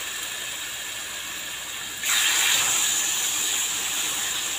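Chicken breast fillets sizzling in butter in a frying pan. About two seconds in, another fillet goes into the hot fat and the sizzle suddenly gets louder.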